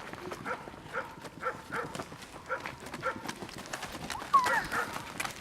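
Central Asian Shepherd puppies squeaking and whining, with short pitched squeaks repeating about three to four times a second and one louder, gliding yelp about four seconds in.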